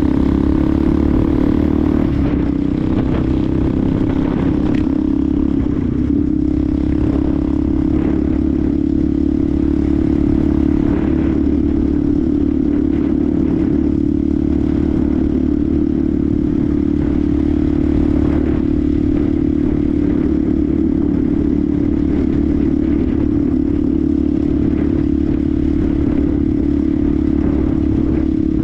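Benelli TNT 125's single-cylinder four-stroke engine running steadily as the motorcycle rides along, its pitch rising a little in the first two seconds and then holding constant. Low wind rumble underneath.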